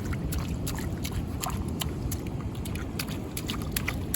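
Low rumbling outdoor noise, mostly wind buffeting the microphone at the seashore, with many small sharp clicks and taps scattered through it.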